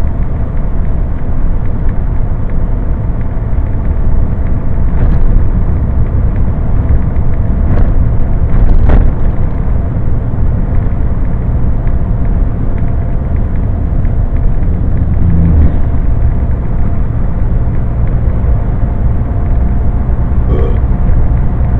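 Scania HGV driving along a motorway: a steady low rumble of engine and road noise, with a couple of faint ticks about 8 and 9 seconds in.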